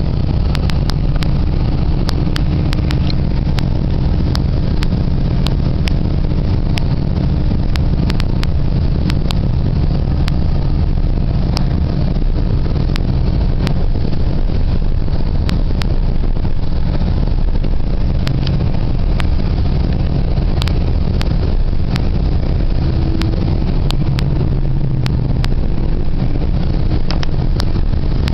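GO Transit commuter train in motion, heard from inside the passenger coach: a steady low rumble with frequent sharp clicks and rattles.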